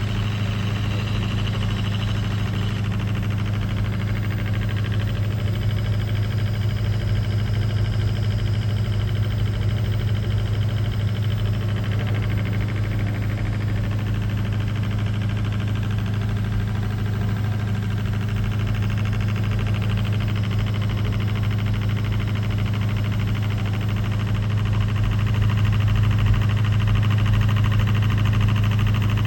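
Lenze servo motor running steadily on a test run: a constant low electrical hum with fainter high-pitched whine tones that drift slightly, getting a little louder about 25 seconds in.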